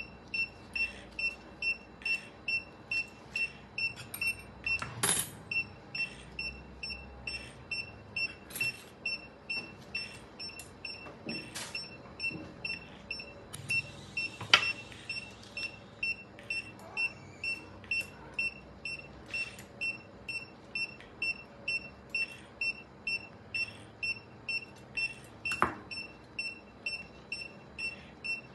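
Surgical patient monitor beeping steadily, a high short beep about twice a second, the pace of the cat's pulse under anaesthesia. A few sharp clicks now and then.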